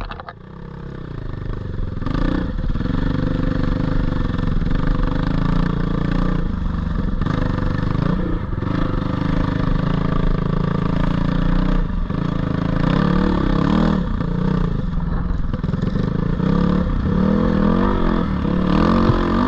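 A single-cylinder four-stroke GPX 450R dirt bike engine under way on a trail, revving up and down again and again as the throttle is worked. It starts quieter and picks up over the first couple of seconds.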